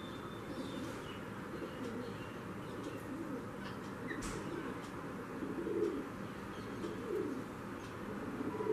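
Bird making several low calls, the clearest in the second half, over a steady background hum, with a brief click about four seconds in.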